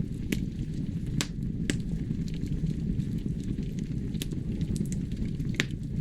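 Wood fire crackling in a fireplace: a steady low rumble of flames with sharp pops and snaps about five times, the loudest about a second in and near the end.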